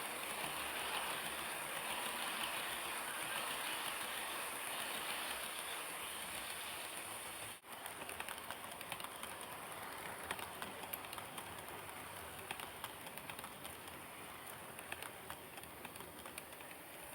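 HO-scale model train running on its track: a steady hiss of wheels and motor, with quick irregular clicking of the wheels over the rails. There is a brief break about seven and a half seconds in.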